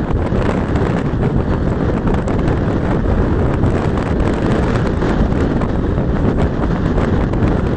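Wind buffeting the microphone: a loud, steady rumbling rush with no gull calls standing out.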